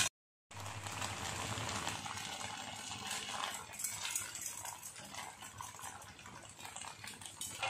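Malpua frying in hot desi ghee in an iron kadhai: a steady sizzle that starts about half a second in, after a moment of dead silence.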